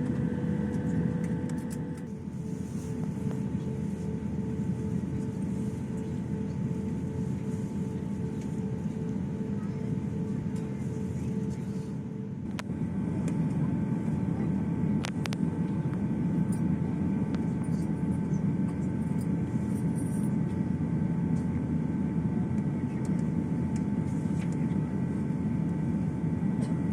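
Steady low rumble of an Airbus A350-900 airliner's cabin, engines running before takeoff, with a few steady tones above it. A faint pulsing beep, about two a second, stops about halfway through; a couple of sharp clicks follow and the rumble grows a little louder.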